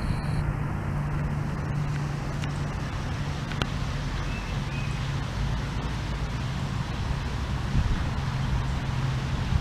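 Steady low hum and rumble like road traffic, with a few faint clicks.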